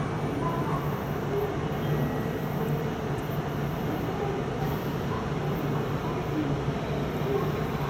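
Steady low rumble and hum of an approaching electric-locomotive-hauled freight train, still some way off.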